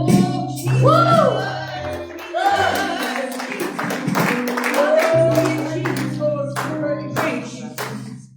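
Live gospel worship music: sung melody over sustained keyboard and bass notes, with regular hand claps and sharp percussive strikes. The music cuts off near the end.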